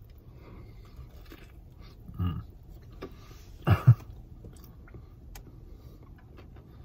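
A person chewing a mouthful of crispy fried chicken sandwich, with faint scattered crunching clicks over a low steady car-interior hum. Two short hums of the voice come through, a softer one about two seconds in and a louder one near four seconds.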